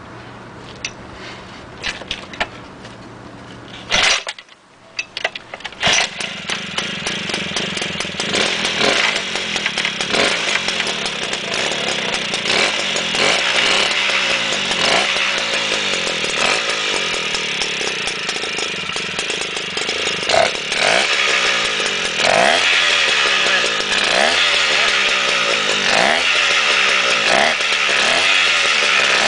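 JLO two-stroke stationary engine running. About four seconds in there is a loud burst and a brief dip, then it runs louder. For the rest of the time its speed rises and falls every couple of seconds, with sharp pops.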